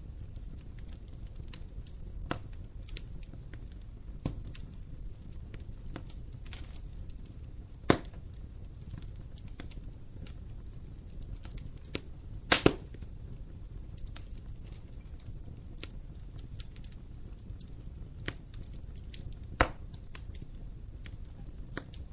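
Wood fire burning in a fireplace: a steady low rumble with scattered crackles and sharp pops, the loudest about 8 seconds in, a double pop near the middle and another near the end.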